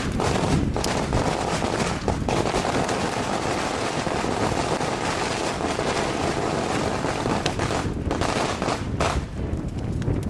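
Long strings of firecrackers going off in a continuous rapid crackle of bangs, unbroken for the whole stretch.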